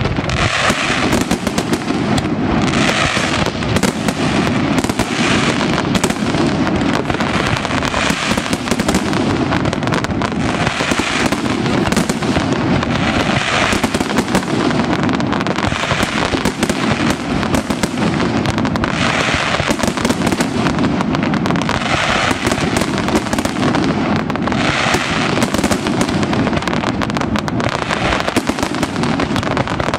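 Castillo fireworks display by Pirotecnia Aitana going off in a dense, continuous barrage of bangs and crackle, swelling every two to three seconds as new volleys burst.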